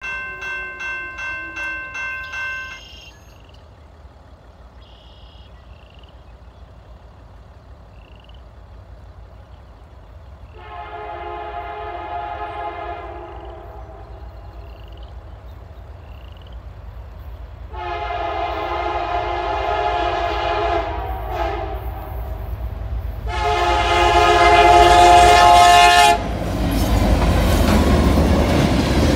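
A grade-crossing bell rings in even strokes, then stops. A freight diesel locomotive's horn sounds three long blasts, each louder than the last as the train nears. Near the end the lead locomotives pass close by with heavy engine rumble and wheel noise.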